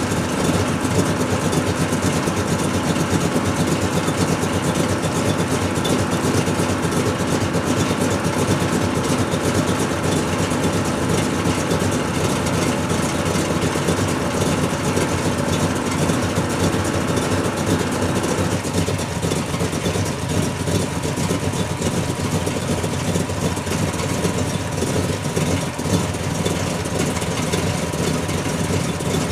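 A vehicle engine running steadily, its sound changing about two-thirds of the way through.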